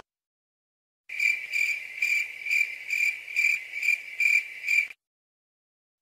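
Crickets chirping, used as a stock sound effect: about nine evenly spaced high chirps, roughly two a second. They start about a second in and stop cleanly just before five seconds. This is the familiar awkward-silence cricket gag.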